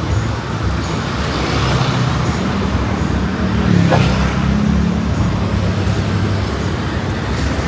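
Street traffic: motor vehicles running and passing, with a steady low rumble that swells to its loudest about four seconds in.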